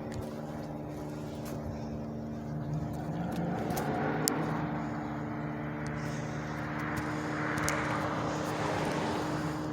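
A motor vehicle engine humming steadily, with a swell of passing engine noise that builds and is loudest about seven to eight seconds in.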